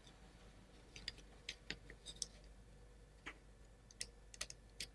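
Faint, scattered light clicks and taps of wooden plywood model parts being handled as a rubber band loop is hooked over them, about ten small clicks at irregular intervals.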